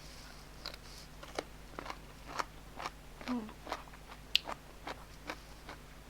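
Close-miked chewing of crunchy food: a string of crisp crunches, about two a second.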